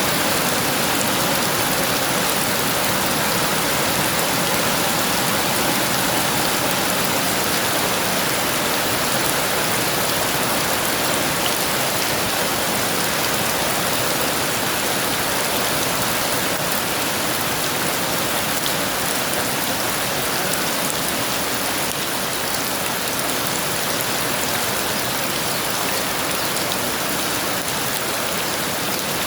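Heavy rain falling steadily, a dense, even hiss with no thunder heard.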